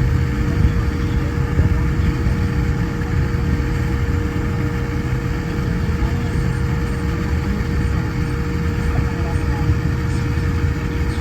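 Steady airliner cabin noise inside a Boeing 787-9: a constant low rumble with a thin, unchanging hum above it.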